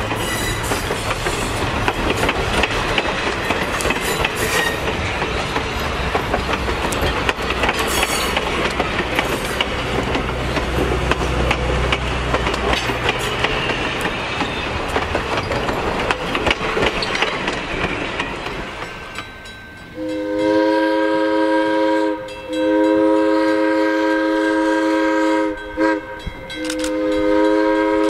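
Pullman passenger cars rolling past close by, steel wheels clacking over the rail joints, the sound fading away. Then a diesel locomotive's multi-note air horn blows the grade-crossing signal: two long blasts, a short one, and a long one.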